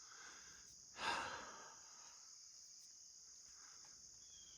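Steady high-pitched insect chirring, with a single breathy exhale about a second in.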